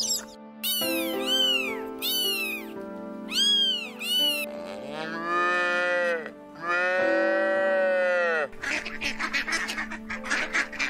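Steady background music under a string of animal calls: several short high calls that rise and fall, then two long cow moos, then rapid duck quacking near the end.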